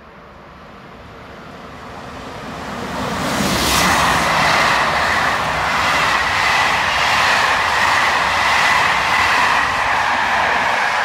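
A train approaching and passing close by at speed: its noise builds over the first few seconds, then stays loud with a rhythmic clatter of wheels over the rail joints, about two beats a second, and a steady high ringing from the rails and wheels.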